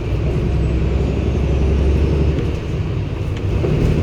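Cummins ISB six-cylinder diesel engine of a 2016 NEW BS090 city bus running under way. Its low drone eases off about two and a half seconds in and picks up strongly again near the end.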